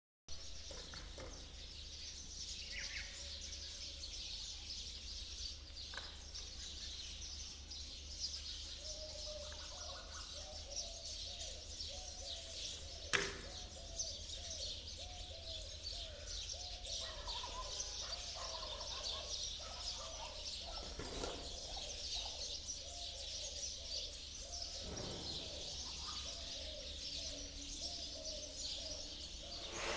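Birds calling outdoors: a dense chorus of high chirping throughout, with a run of short, lower calls repeated many times through the middle.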